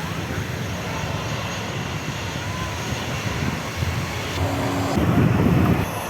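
Airliner jet engines running with a steady low rumble, swelling louder for about a second near the end.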